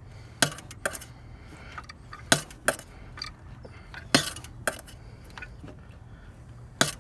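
Sharp metallic clinks and clacks of hand tools against engine parts: about seven separate strikes at uneven spacing, over a faint steady low hum.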